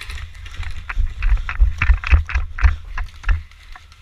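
Footsteps of someone running, with heavy, irregular thuds about three a second from the jostled camera and microphone. The thudding stops a little after three seconds in.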